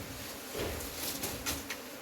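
A mass of honeybees buzzing steadily as the nest is smoked out, with a few short clicks over it.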